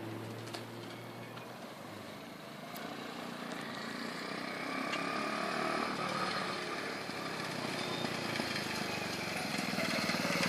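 Small pocket bike engine running at a distance and getting louder as it comes closer, its pitch rising and falling with the throttle.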